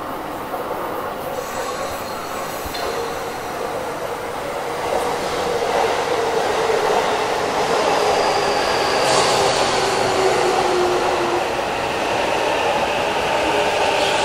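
Electric commuter train pulling out of the platform and running past, with whining motors and squealing wheels as it gathers speed; the sound grows steadily louder, with a falling high whine about nine seconds in.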